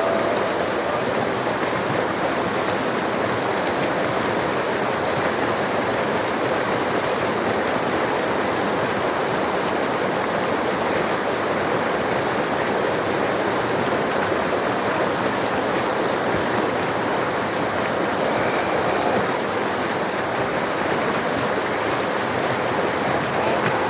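Steady rushing water, a continuous even roar of a fast stream or falls.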